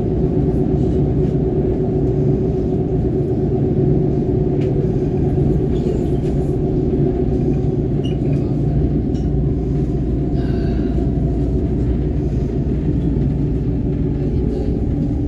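Steady rumble and hum of a Canada Line SkyTrain car running between stations, heard from inside the car.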